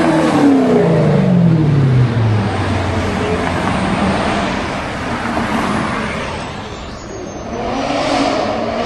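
A car engine revving and then falling in pitch over about two and a half seconds as the throttle comes off, followed by a steady wash of noise; near the end an engine note rises again.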